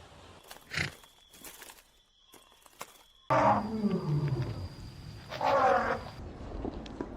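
A large animal calling: a sudden loud call falling in pitch about three seconds in, then a second, shorter and higher call about two seconds later.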